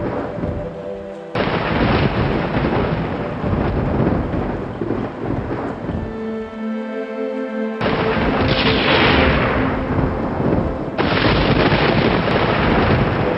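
Rolling thunder with rain, a dense rumble that starts and stops abruptly several times. Soft relaxing music with a few steady held notes runs beneath it and comes through most clearly where the storm thins out, about six to eight seconds in.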